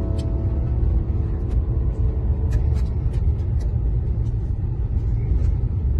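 Car on the move, a steady low road rumble with scattered sharp ticks.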